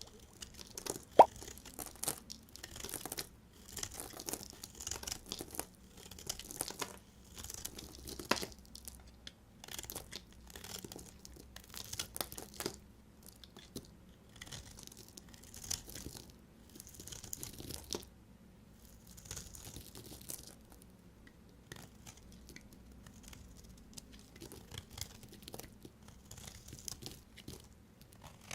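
A knife cutting through dry bar soap in a run of crunchy, crackling strokes that come in bursts every second or two, with one sharp click about a second in.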